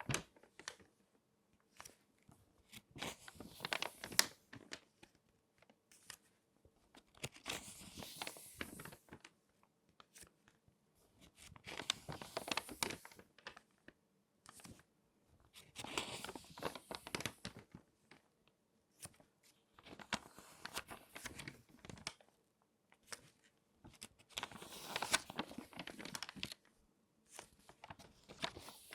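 Crinkly magazine pages being folded and crumpled by hand. The paper crackles in bursts of a second or two, about every four seconds, with short quiet pauses between them.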